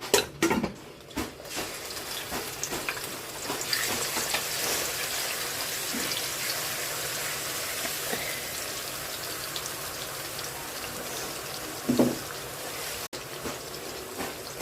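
Water running steadily from a kitchen tap, with a few knocks in the first second or two and a louder knock near the end.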